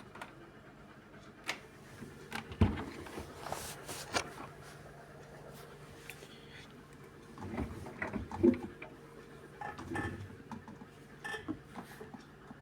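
Beko washing machine at the end of its cycle: a faint steady hum with scattered clicks and knocks, two of them louder thumps.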